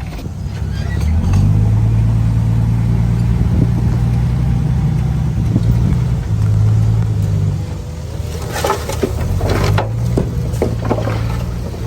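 Komatsu D31PX bulldozer's diesel engine running steadily under load, its pitch shifting a few times. From about two-thirds of the way in, a series of sharp clanks and knocks joins it.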